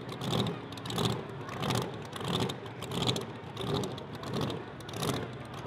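Supercharged, alcohol-injected V8 of a 1968 Camaro SS drag car running with a lumpy, rhythmic pulse, about one surge every two-thirds of a second.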